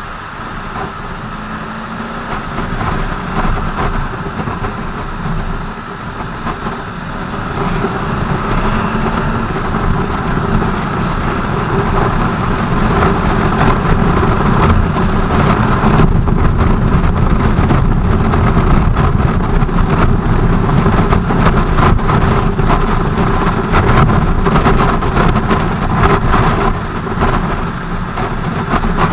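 BMW R 1200 GS motorcycle's flat-twin boxer engine running on the move, with a wide rush of wind and road noise. It grows louder over the first several seconds, then holds steady.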